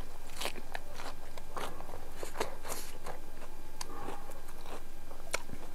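A person chewing a mouthful of lettuce leaf and biryani close to a clip-on microphone: irregular crunches and mouth clicks, several a second.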